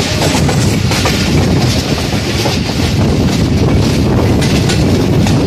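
Rehman Baba Express passenger coach running along the track: a steady, loud rumble of wheels on rail with irregular clicks and clatter over the rail joints.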